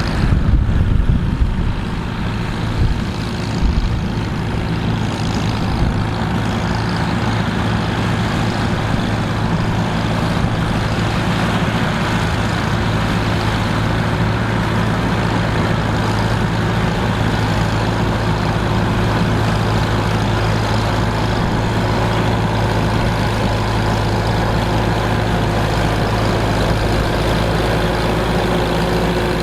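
A heavy engine of old farm machinery running steadily at a constant speed, with a few louder low knocks in the first few seconds.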